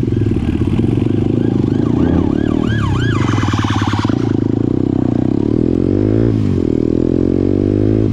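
Motorcycle engine running under way, with a siren wailing in a fast rise-and-fall about two to three seconds in. About six seconds in, the engine note drops sharply and then climbs again.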